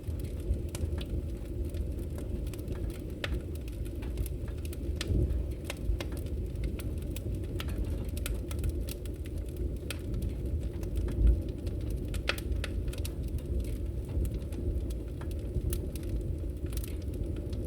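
Wood fire burning in a fireplace: a steady low rumble of flames with irregular sharp crackles and pops, and one heavier low thump about eleven seconds in.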